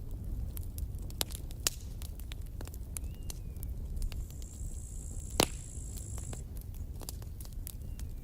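Wood campfire crackling, with scattered sharp pops over a steady low rumble. One loud pop comes about five seconds in, and a thin high whistle runs for about two seconds in the middle.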